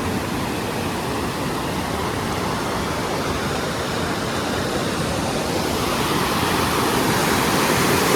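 Steady rush of flowing water, like a mountain stream or waterfall, growing a little louder in the second half.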